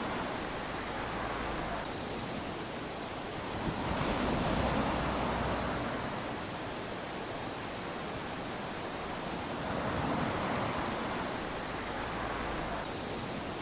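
Small waves lapping onto a sandy beach, a steady wash that swells twice as waves break and run up the sand.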